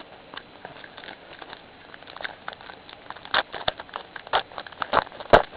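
Foil trading-card pack crinkling and crackling as it is handled and torn open. The quick run of small crackles grows denser and louder about two seconds in, and the sharpest crack comes near the end.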